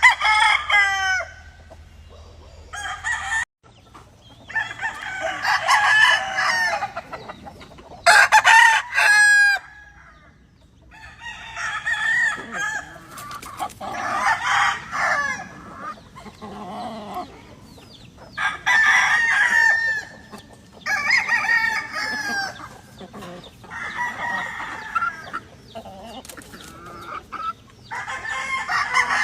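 Several gamefowl roosters crowing one after another, some crows overlapping, with clucking in between.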